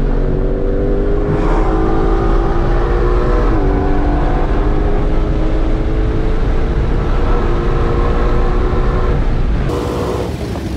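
Supercharged 5.2-litre V8 of a 2020 Ford Shelby GT500, heard from inside the cabin while running hard on a race track. Its pitch sags slowly, dips briefly about three and a half seconds in, then holds steady. Near the end the engine sound becomes quieter.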